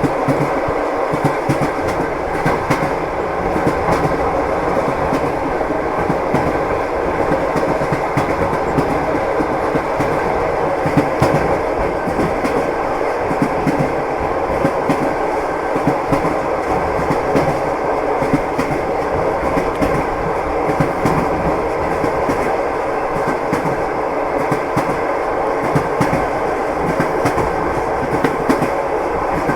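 Train wheels clattering on the rails while running steadily: a continual clickety-clack of small knocks over an even rumble.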